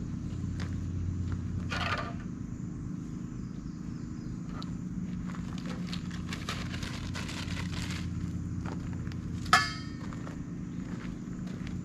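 Camp gear being handled and set out: scattered clicks and knocks over a steady low motor hum. About nine and a half seconds in comes one sharp clink with a short ringing tail, the loudest sound.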